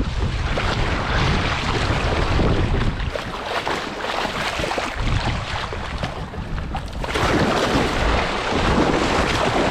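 Wind buffeting the microphone over water sounds around a kayak on the water, easing off for a few seconds in the middle before picking up again.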